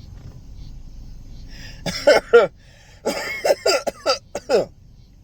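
A man coughing in two bouts: two or three coughs about two seconds in, then a run of several more coughs about a second later.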